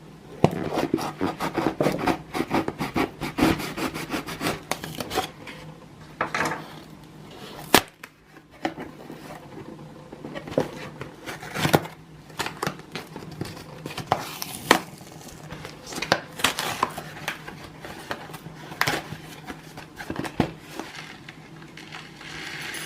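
Handling sounds of kitchen items and packaging being unpacked and put away by hand. For the first six seconds there is rapid rustling and clicking. After that come separate sharp taps and knocks, the loudest about eight seconds in.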